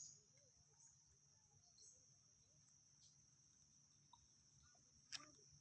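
Faint, steady high-pitched drone of insects, with a single sharp click about five seconds in.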